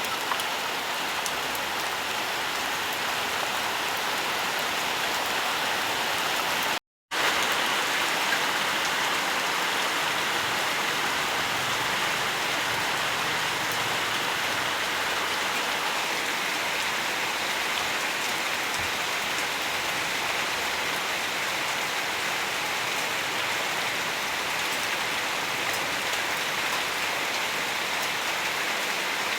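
Steady rainfall, an even hiss of many drops. About seven seconds in it cuts out completely for a split second, then resumes.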